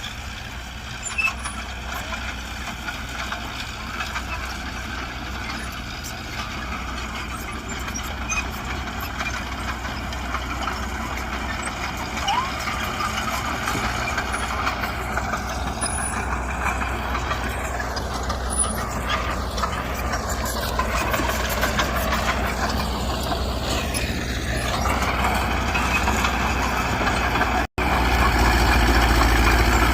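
Heavy earthmoving machinery running: the diesel engines of a bulldozer and dump truck working, growing gradually louder. Near the end there is a brief break, after which the engine noise is louder and deeper.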